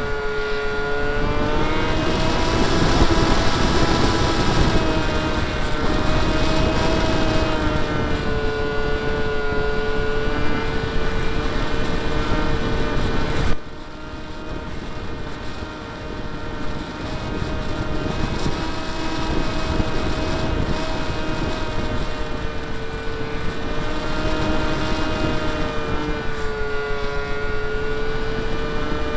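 Brushless electric motor and 7x6 propeller of a Skyartec Skyfun RC plane whining steadily from on board, its pitch wavering up and down, over a rush of wind across the camera. About halfway through the sound drops suddenly, then builds back a few seconds later.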